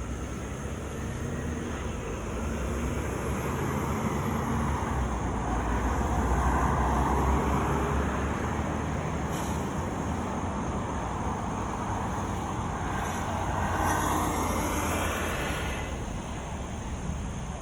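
Road traffic: cars passing on the road over a steady low rumble, with louder passes that swell and fade about six seconds in and again near the end.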